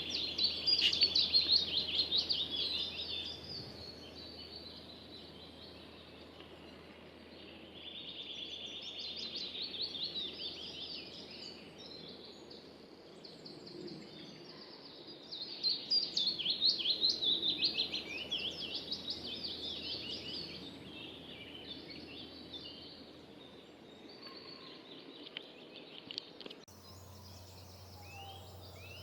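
Wild songbirds singing, a mix of quick chirps and trills that comes in bouts, loudest near the start, again around a third of the way in and strongest a little past the middle.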